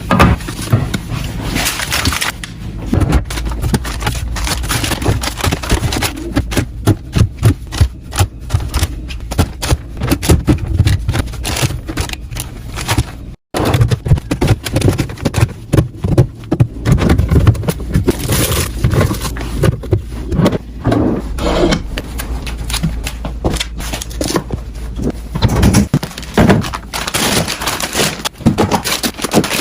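Rapid clicks, taps, scrapes and crinkling of plastic containers and packaging being handled and set into a fridge while it is restocked. The sound cuts out for an instant about thirteen seconds in, then the handling goes on.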